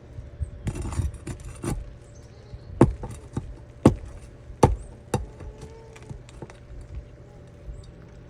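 Small hard objects being handled: a brief rattle about a second in, then several sharp clicks and knocks, four of them loud, with lighter ticks between.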